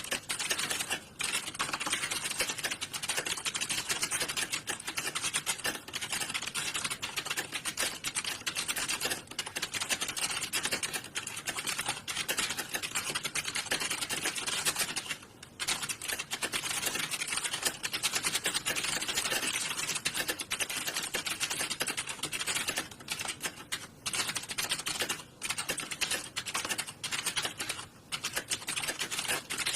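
Fast, continuous typing on computer keyboards, key clicks running close together, with a brief pause about halfway through.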